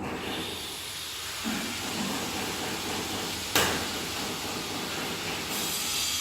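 Steady hissing noise with one sharp knock a little past halfway.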